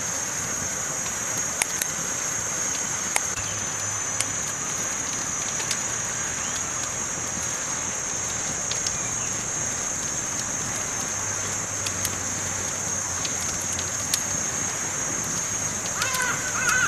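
Campfire burning with scattered sharp crackles and pops over a steady high hiss. Near the end there is a brief wavering call.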